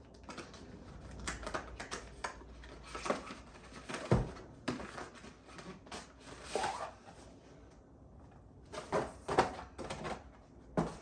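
GoPro Hero 11 Black retail packaging being opened by hand: scattered rustles and small clicks of box and plastic being handled, with one sharp knock about four seconds in.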